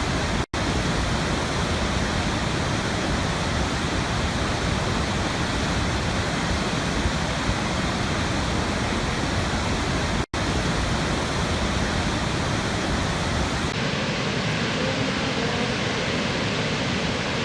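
Steady rush of a waterfall's falling water. It cuts out for an instant twice, about half a second in and about ten seconds in, and near the end it switches to a different recording of a waterfall with a slightly duller sound.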